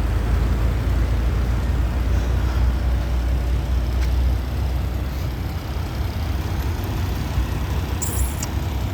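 Deep, steady engine rumble from a large diesel vehicle such as an idling semi truck, heavier for the first five seconds and then easing, with a short hiss near the end.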